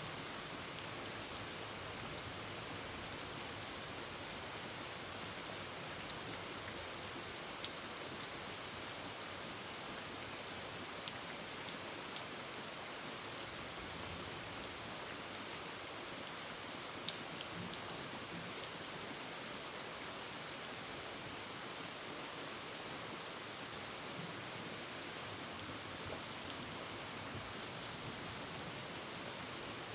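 Heavy rain falling steadily on a tin roof, with scattered sharper drop strikes standing out from the even hiss.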